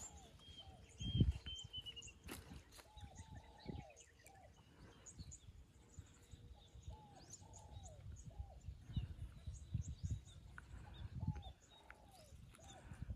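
Birds calling outdoors: short arching notes repeated in groups of three or four, with a few higher chirps near the start. Low knocks and thumps sound underneath, the loudest a thump about a second in.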